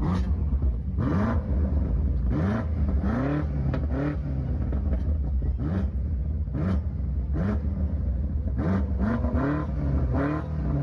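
A performance car's engine revved at standstill in a string of short, sharp throttle blips over a steady idle rumble, heard from the exhaust.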